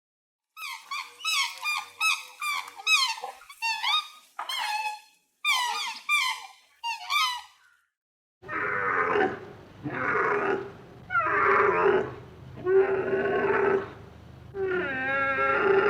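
Farm animal calls: a rapid series of about a dozen short, high-pitched squeaks, then after a brief pause about five longer, lower calls of roughly a second each.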